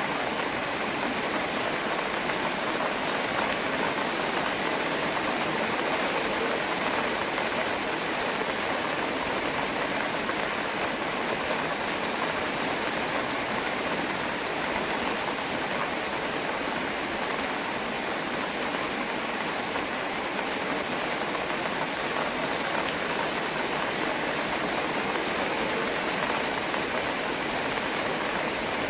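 Steady rain, an even continuous hiss with no single drops or other sounds standing out.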